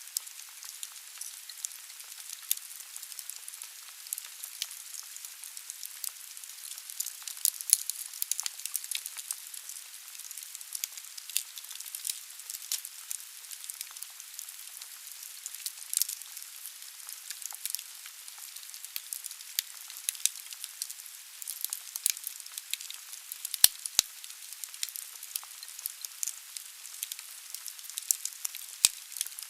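Wood burning in a fireplace: a steady hiss with constant irregular crackles and pops from the logs, a few sharper pops standing out, the loudest about four-fifths of the way through.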